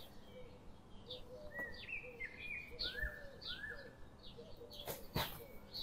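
Faint chirping of small birds in the background, a series of short rising chirps. Near the end there are a couple of soft clicks.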